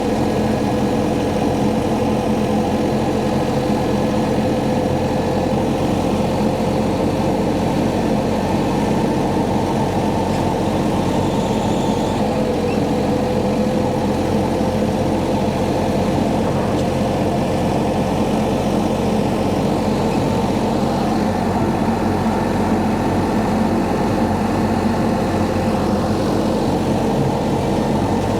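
Tractor engine running steadily while pulling a brush hog rotary mower through weeds, a constant drone that holds one speed throughout.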